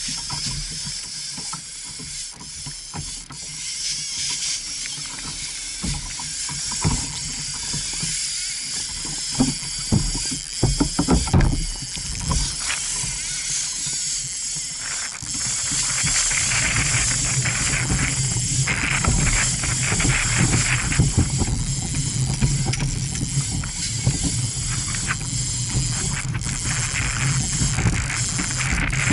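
Fishing reel ratcheting and clicking in bursts, over a constant rushing of wind and water.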